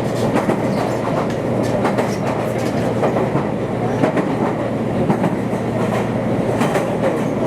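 Electric passenger train running at speed, with a steady rumble of wheels on rail and short clicks as the wheels pass over rail joints. Heard from inside the carriage.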